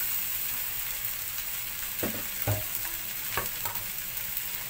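Fern shoots and sambal belacan paste sizzling on a hot grill plate, a steady hiss, with a few light knocks about two and three and a half seconds in.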